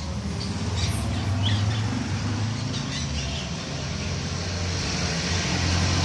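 Caged budgerigars chirping in short, scattered calls over a steady low hum.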